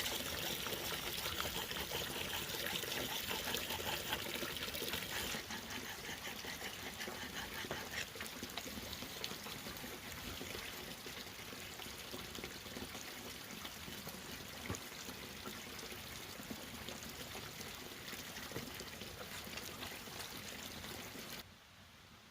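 Water trickling and running steadily, a little softer after about five seconds, then cutting off abruptly near the end.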